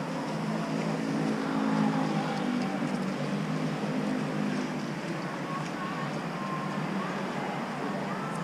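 Mini excavator's diesel engine running steadily, a little louder about a second or two in.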